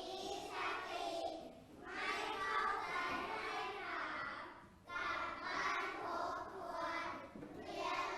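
A group of young children's voices together, chanting or singing in unison in short phrases with brief pauses.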